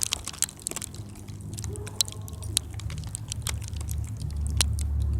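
Handling noise on the camera's microphone: irregular clicks and rustles, with a low rumble building near the end.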